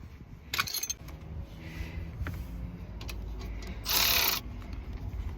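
Metal brake parts being handled during rear pad fitting: clicks and clinks under a second in, then a loud half-second rasp of noise about four seconds in.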